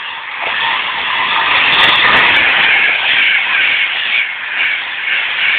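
High-speed express passenger train passing close by at speed: a dense rushing noise of wheels on rail and moving air that swells over the first two seconds and stays loud as the coaches go by.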